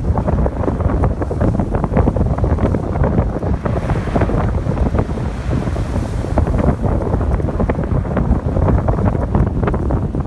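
Strong wind buffeting the microphone, heavy and rumbling, over ocean surf on a beach; a wave's wash swells in a rising hiss about four seconds in and fades a couple of seconds later.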